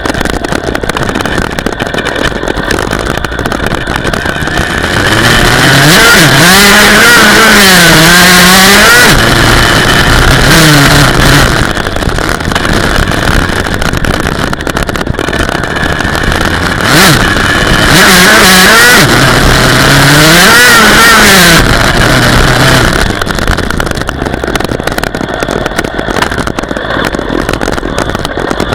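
Dirt bike engine revving up and down in several surges, its pitch rising and falling, with lower, steadier running between them. The loudest stretches come about a fifth of the way in and again past the middle.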